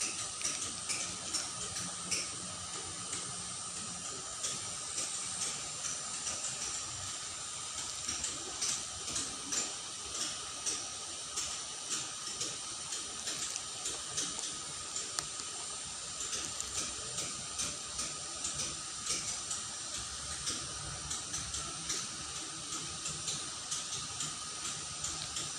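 Shallow water running in a small ditch: a steady rushing hiss broken by many small irregular splashes and gurgles, with a faint steady high tone underneath.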